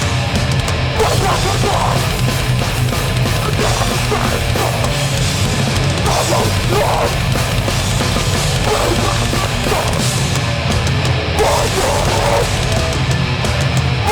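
A metallic hardcore band playing live and loud: heavily distorted guitars, bass and pounding drums in one dense wall of sound, with shouted vocals that come and go.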